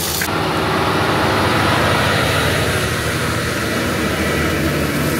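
Heavy diesel road-paving machinery running steadily, an engine hum under a wash of mechanical noise.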